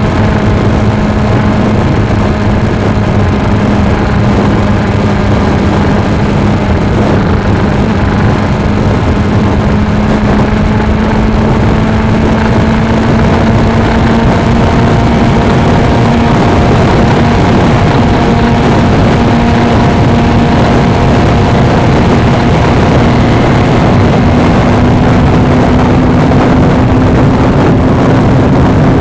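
Suzuki V-Strom 250's parallel-twin engine running steadily while riding, its note slowly rising in pitch, with wind noise on the microphone.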